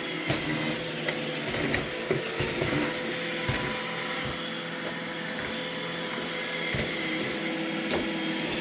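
iRobot Roomba E6 robot vacuum running: a steady motor hum and whine with scattered light clicks and knocks.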